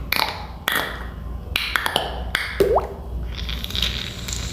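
Beatboxer's mouth sound effects: a quick string of clicks, pops and short hissing bursts, with one brief rising whistle-like glide about two and a half seconds in.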